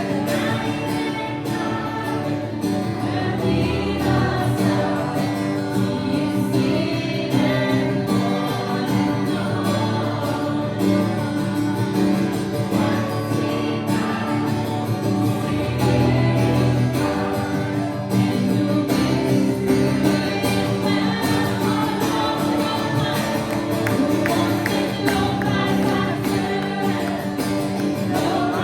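Live worship music: a group of voices singing together over guitar and sustained instrumental chords.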